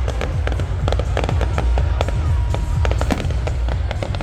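Fireworks going off in a rapid run of sharp bangs and crackles over a constant low rumble.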